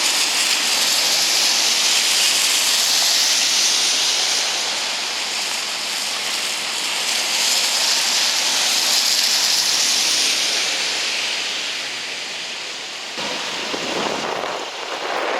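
Steady rushing hiss of wind over the microphone and wet street noise while riding a bicycle through falling wet snow, with a louder whoosh that swells and fades near the end.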